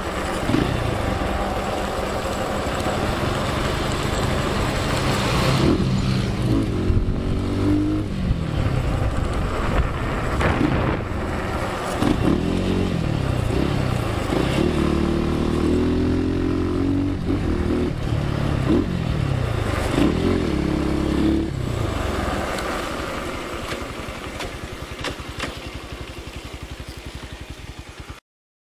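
Trail motorcycle engine running and revving, its pitch climbing and dropping back again and again, then fading away over the last several seconds.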